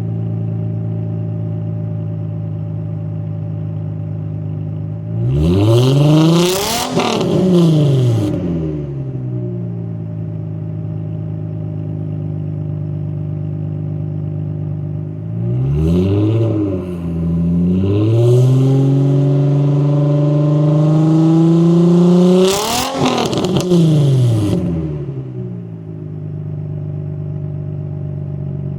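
Nissan 350Z's 3.5-litre V6 idling through an exhaust with the resonator and muffler deleted, blipped up and down a few times, held at raised revs for a few seconds, then revved hard once more and dropping back to idle.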